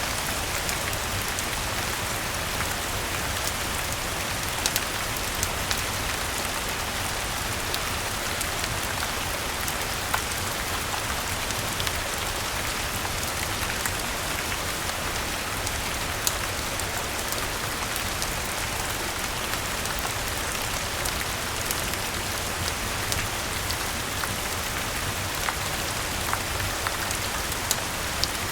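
Steady rain falling on leaves and ground, an even hiss with scattered sharp clicks and pops.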